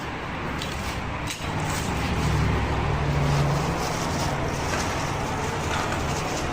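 A motor vehicle engine running, swelling louder about one and a half seconds in and easing off a couple of seconds later, over steady background noise.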